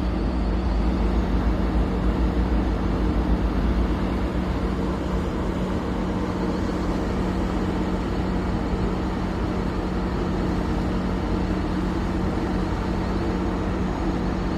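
Diesel engines of a river towboat running steadily: an even low drone with a constant hum.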